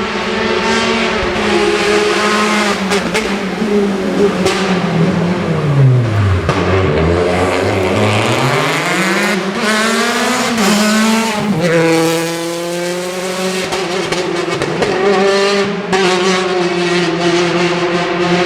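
Citroën DS3 R5 rally car's turbocharged four-cylinder engine revving hard. The pitch falls steeply about five seconds in as it slows and downshifts, then climbs again and steps up through several gear changes, with scattered sharp cracks.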